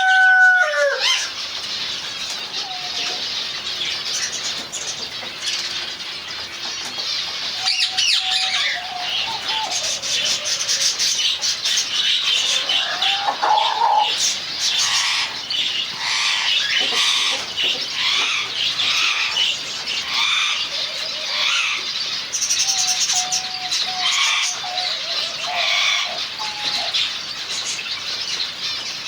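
A colony of finches chirping constantly, many small calls overlapping, with wings fluttering. A few lower, drawn-out calls stand out about a third of the way in and again near the end.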